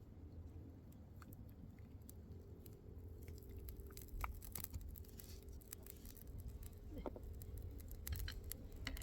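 Faint scattered clicks and taps over a low steady rumble, growing busier from about three seconds in.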